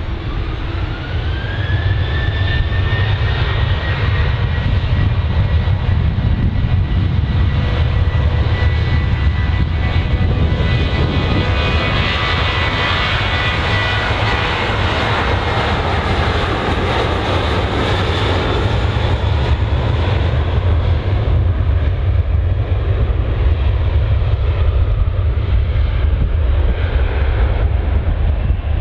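Jet airliner's engines spooling up with a rising whine, then a steady high whine over a roar that grows loudest about halfway through and fades towards the end, with a steady low rumble underneath.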